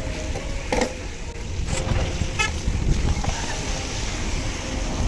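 Low, gusty rumble of wind buffeting the microphone during a bicycle ride, with scattered clicks. About two and a half seconds in, a short, high toot sounds.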